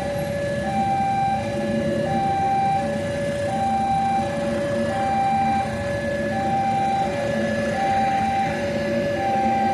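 Electronic two-tone warning alarm alternating evenly between a high and a low note, each held for about three-quarters of a second, over a steady low rumble.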